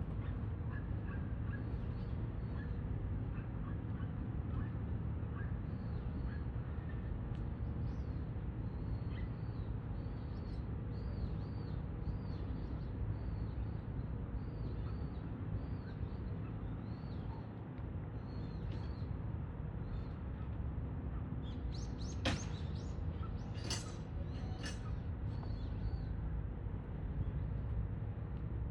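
A crow wiping its beak back and forth against a perch: short squeaky strokes, often in pairs, then a few louder scrapes and clicks about 22 seconds in, over a steady low rumble.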